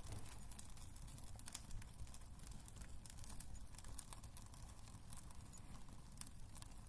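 Wood fire crackling in a fireplace: faint, irregular sharp snaps and pops over a low steady rumble of the burning fire.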